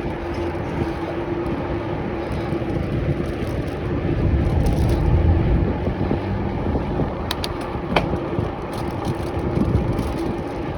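Road noise while riding along a street: a steady hum over a rumble of traffic and wind. Two or three sharp clicks come about seven to eight seconds in.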